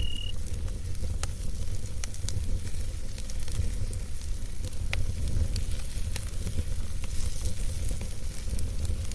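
Campfire of burning wood crackling, with scattered sharp pops over a steady low rumble.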